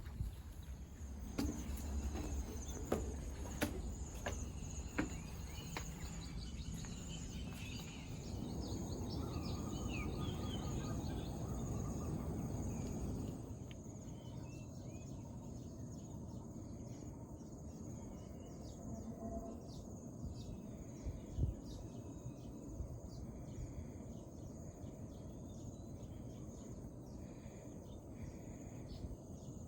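Outdoor nature ambience of insects and bird calls, with scattered clicks and knocks in the first several seconds and a rustling noise that cuts off sharply about thirteen seconds in.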